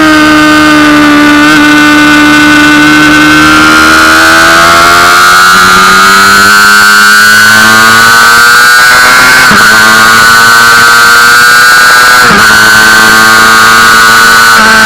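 Honda CBR600RR's inline-four engine at high revs, heard onboard over wind noise. Its pitch climbs slowly and steadily under acceleration, with two brief sharp dips in the last third.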